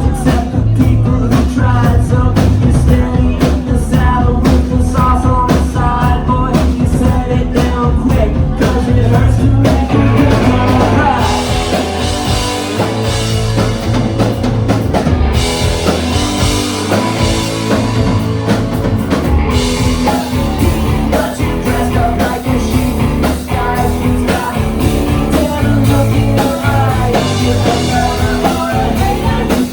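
Rock band playing live with drum kit, bass, guitars and a singer. The cymbals open up about a third of the way in, brightest around the middle.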